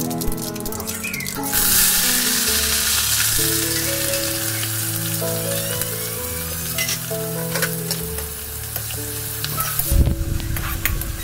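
Hot oil sizzling in an aluminium kadai, with seeds popping, then a much louder hiss about a second and a half in as sliced shallots, garlic and curry leaves go into the oil. Near the end a steel spatula scrapes and clinks against the pan as they are stirred.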